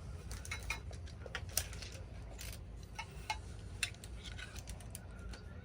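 Scattered light clicks and taps from handling small tools and hardware, irregular, over a low steady hum.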